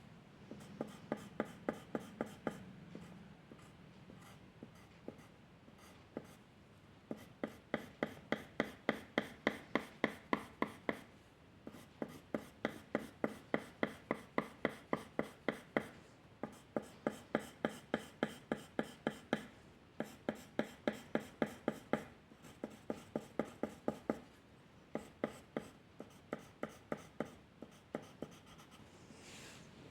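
A drawing tool being worked over paper in quick, even back-and-forth strokes, about four a second, in runs of a few seconds with short pauses between them, as when colouring in an area.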